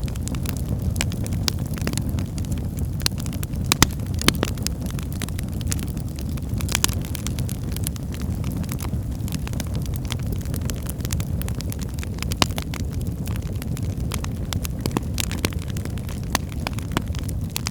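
Wood fire in a fireplace burning with a steady low rumble of flames and irregular crackles and pops from the burning logs, a few sharper pops standing out.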